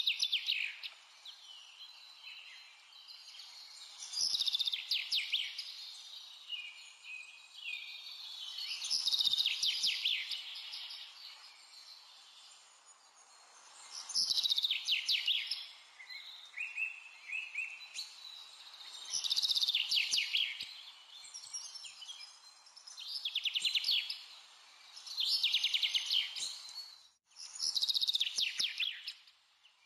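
A songbird singing short, rapid trilling phrases, about eight of them, one every few seconds, over a faint steady hiss.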